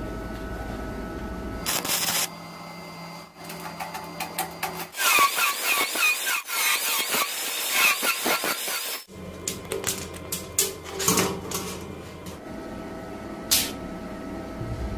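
Small motorised mechanism and gears running in short stretches, with clicks and rattles of metal parts being handled; the sound changes abruptly several times, as between edited shots.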